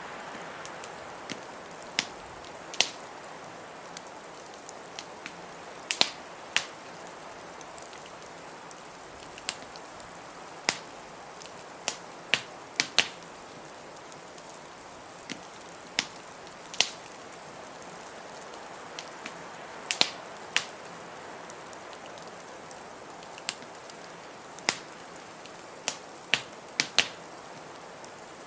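Wood fire crackling in a fireplace: sharp, irregular pops and snaps about once or twice a second over a steady hiss of blizzard wind.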